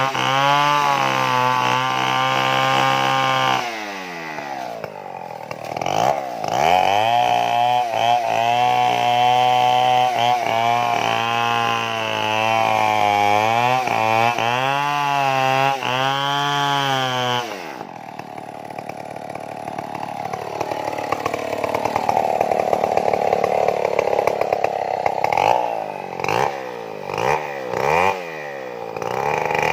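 Two-stroke Stihl chainsaw cutting into a large tree trunk, the engine held near full throttle with its pitch wavering under the load of the cut. Several times the revs fall away and climb back up.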